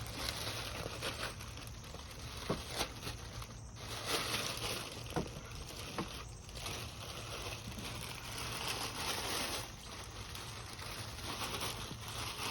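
Rustling and crinkling of packaging as pressure washer parts are handled, with scattered light clicks and knocks.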